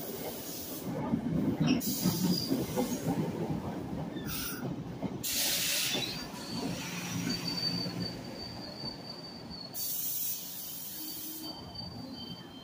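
NJ Transit commuter train's passenger cars rolling past and slowing to a stop, with a low wheel rumble and several short bursts of hissing. A thin, high, steady squeal sets in about halfway through as the train comes to a halt.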